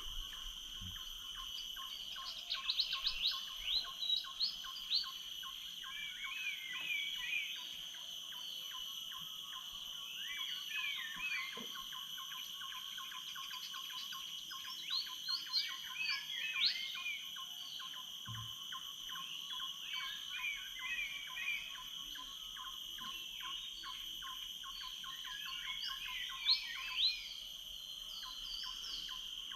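Tropical rainforest dawn chorus: many birds chirping and whistling in short, quick phrases over a steady, high insect drone, with louder flurries of calls a few seconds in, in the middle and near the end.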